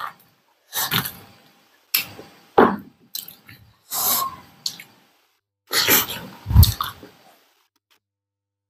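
Close-up mouth sounds of people eating with their hands, wet chewing and lip smacks in about eight short bursts with pauses between them. The last second is silent.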